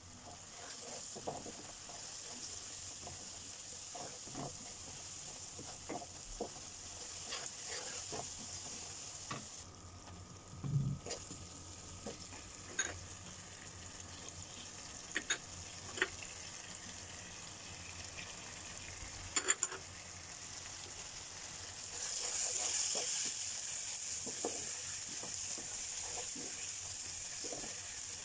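Chopped onion and spices sizzling in hot oil in a pan, with a wooden spatula scraping and knocking against the pan as the masala is stirred. The sizzle grows louder about three quarters of the way through.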